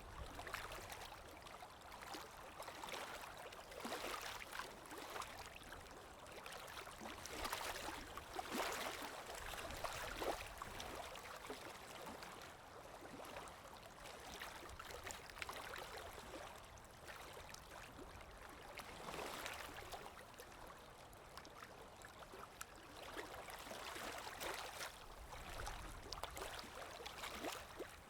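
A paintbrush stroking across watercolour paper: faint, irregular soft swishes, one every second or few.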